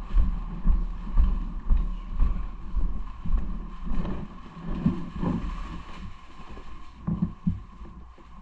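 Wind buffeting the microphone of a camera on a moving bicycle: a low rumble that pulses about twice a second and eases off after about four seconds, over a faint steady whine.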